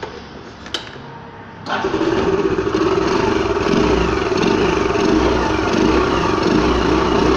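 Yamaha Fascino scooter's single-cylinder engine starting after a click just under a second in, then running steadily at idle. Its intake note is altered by an aftermarket sound attachment fitted to the air-filter hose, which changes the engine sound noticeably.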